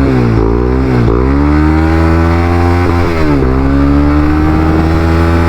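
Honda CBR300R's single-cylinder engine accelerating through the gears. The revs climb and drop at shifts about half a second in, about a second in and a little past three seconds, then rise slowly and hold. The bike is slow to pick up, and the rider says it has been running badly and sounds horrible.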